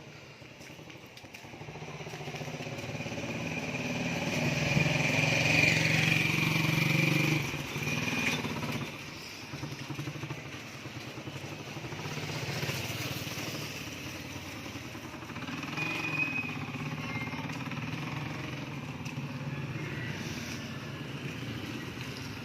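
Motorcycle engine passing close, growing louder until about seven seconds in and then dropping away sharply. Motor sound carries on at a lower level afterwards.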